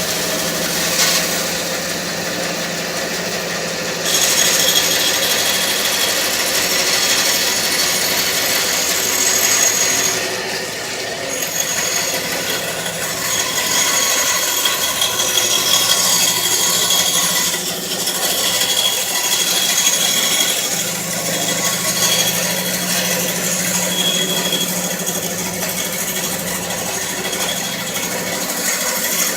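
Bandsaw running with a steady motor hum while its blade cuts through a wooden board, the cutting hiss rising and falling a little as the piece is fed round the circle jig.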